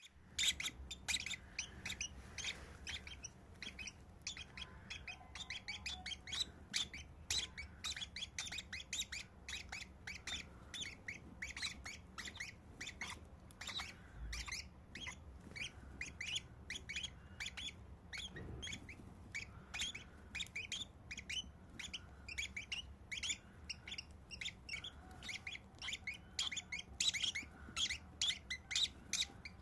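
Nestling birds giving begging calls while a parent feeds them: a steady stream of short, high chirps, several a second.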